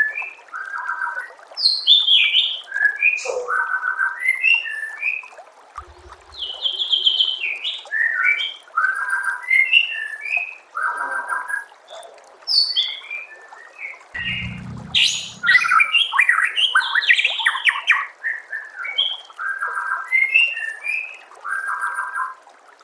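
White-rumped shama (murai batu) singing a long run of varied, rapid whistled phrases and repeated chattering notes, densest in the second half. Two brief low thumps come in, about six seconds in and again around fourteen seconds.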